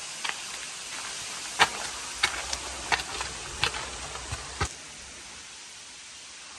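Footsteps on stone and grit, about eight steps that stop about four and a half seconds in, over a steady hiss.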